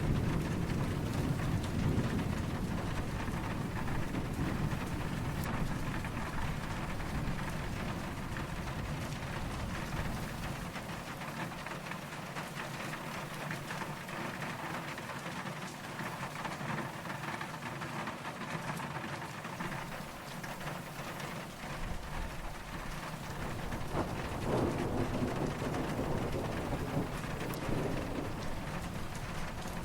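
Steady rain falling, with low, distant thunder rumbling under it. The rumble fades out about a third of the way in and comes back a few seconds before the end.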